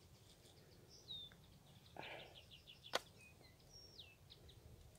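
Faint bird calls: a few high falling whistled notes and a quick run of short chirps. There is a soft rustle about two seconds in and a single sharp click about three seconds in.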